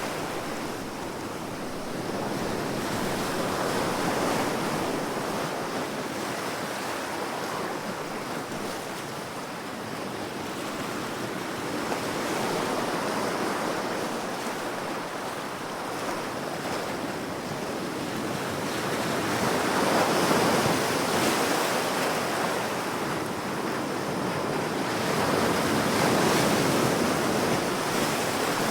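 Ocean waves breaking and washing on a shore, a steady surf noise that swells and eases every few seconds, loudest about two-thirds of the way in and again near the end.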